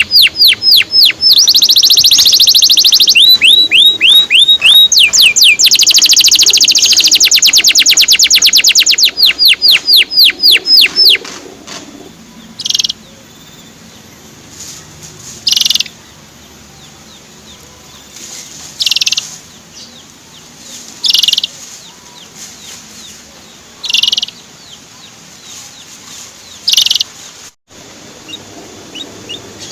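Male canary singing a loud, fast trill of rapidly repeated high, downward-sweeping notes, then breaking off into short single chirps every two to three seconds.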